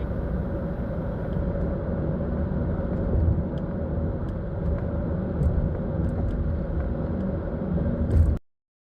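Steady low outdoor rumble with a few faint clicks over it, which cuts off abruptly a little after eight seconds in.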